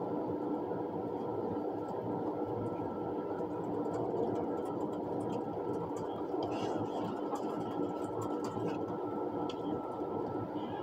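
Steady running noise of an ICE high-speed train heard inside the passenger car: an even rumble with a faint steady hum and a few light clicks.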